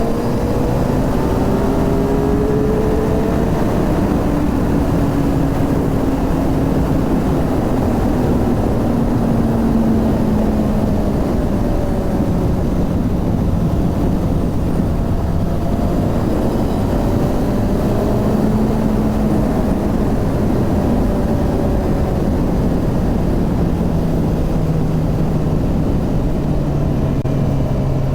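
Suzuki GSX-R 750's inline-four engine running steadily, its pitch sinking slowly over the stretch, over a constant noisy rush.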